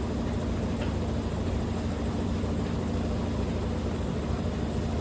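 Washing machine running in its spin cycle: a steady low motor hum and drum rumble that holds even throughout.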